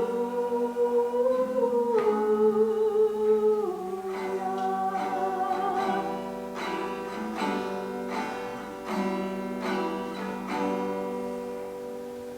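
Closing bars of a church gospel song: a voice holds a long note over acoustic guitar, then the guitar picks out a run of plucked notes that gradually fade as the song ends.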